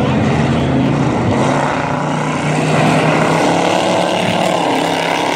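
Dirt-track race trucks' engines running hard at racing speed, a dense steady drone whose pitch rises and falls as the trucks accelerate and lift for the corners.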